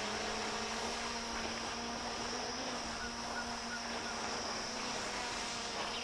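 Propellers of a DJI Mini 3 Pro drone hovering and following overhead, giving a steady, even buzzing whine with no change in pitch. It is picked up faintly by a lapel mic, along with light wind noise.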